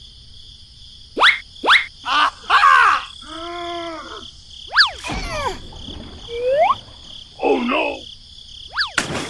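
Cartoon sound effects: short squeaky gibberish character voices and several quick rising and falling whistle sweeps, over a steady high background tone.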